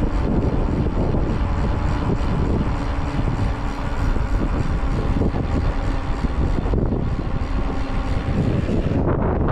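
Wind buffeting the GoPro's microphone on a moving electric mountain bike, a loud steady rumble. The upper hiss drops away near the end.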